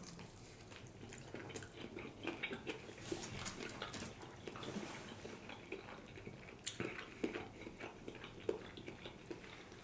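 A man chewing sushi: faint, irregular wet mouth clicks and smacks.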